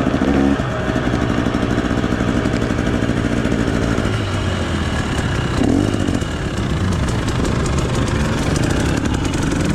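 Two-stroke dirt bike engine, a 2018 Yamaha YZ250X, running at low revs. The revs drop about half a second in, and the engine then runs unevenly just above idle.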